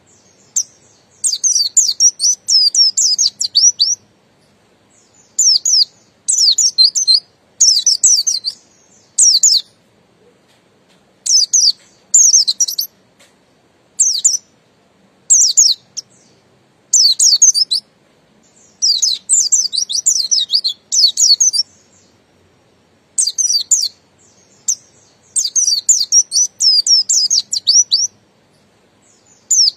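White-eye (pleci buxtoni) singing in the wild, 'ngalas' style: high, rapid warbling phrases that come again and again, separated by short pauses.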